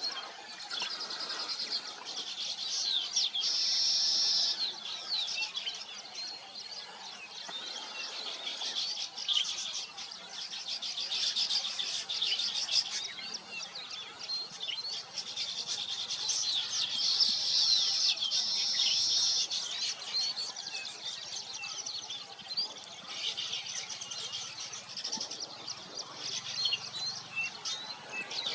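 A colony of weaver birds chattering at their nests: many overlapping high chirps and trills at once, continuous, swelling louder several times.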